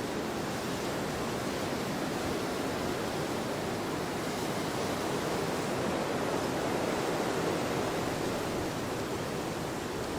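Wind blowing across a field: a steady rushing noise that swells a little about two thirds of the way through.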